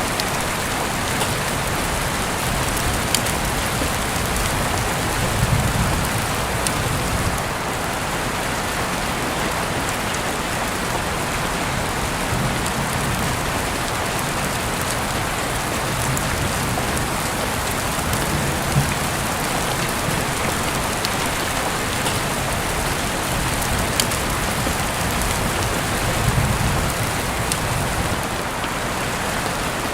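Heavy rain falling steadily, a dense even hiss with scattered sharp drop ticks. A couple of low rumbles swell up about five seconds in and again near the end.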